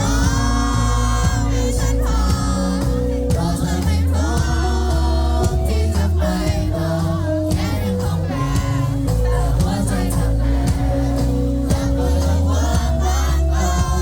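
Live pop-rock band playing with a lead vocal singing over the band, bass and drums steady underneath.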